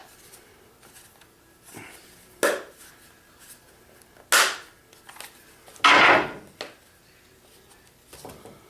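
Bosch orbital sander being snapped back together by hand: several separate clicks and knocks of its parts being fitted, with one longer scrape about six seconds in.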